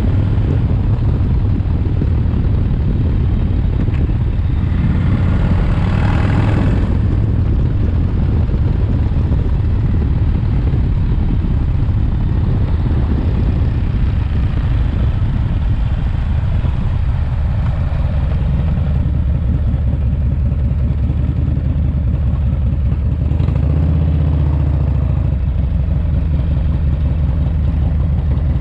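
Rebuilt S&S 107ci V-twin engine of a Harley-Davidson FXRT running steadily under way, on its break-in miles. A brief rushing swell sounds about six seconds in, and the engine note shifts briefly near the end.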